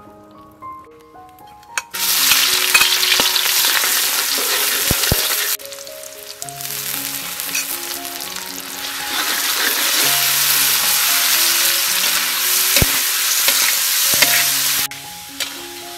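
Hot oil sizzling in a wok as shallots, garlic and shrimp fry and are stirred with a spatula. The sizzle starts about two seconds in, drops away briefly a few seconds later, comes back and cuts off about a second before the end. Soft background music plays under it.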